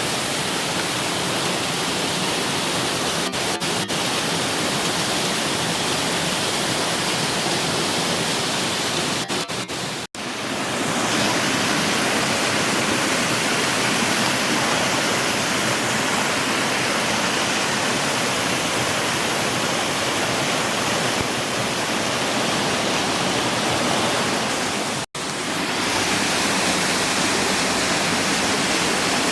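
Loud, steady rush of the All Saints Waterfalls cascading down the rock, with two very short dropouts in the sound, about a third of the way in and near the end.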